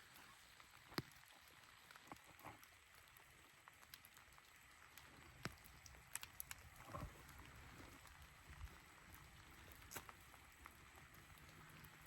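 Near silence: a faint hiss of rain with scattered drops ticking now and then.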